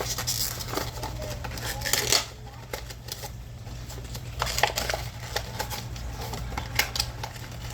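Plastic blister packaging of a die-cast toy car being pried and torn open by hand: crinkling rustles and irregular sharp clicks and cracks, over a steady low hum.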